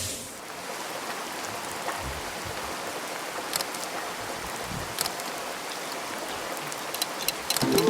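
Steady hiss like rain falling, with a few sharp ticks, which come faster near the end. Music comes back in just before the end.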